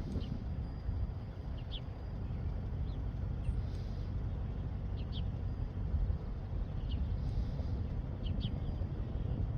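Birds chirping outdoors: short, high calls every second or so, over a steady low rumble.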